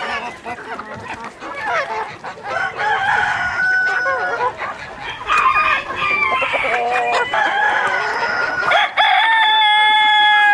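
A flock of chickens clucking and calling over one another, with a rooster crowing loudly near the end, its last note held steady for nearly two seconds.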